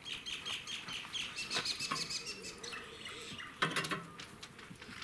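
Small birds chirping, quick short repeated chirps for the first couple of seconds, with scattered faint clicks. A brief louder sound comes about three and a half seconds in.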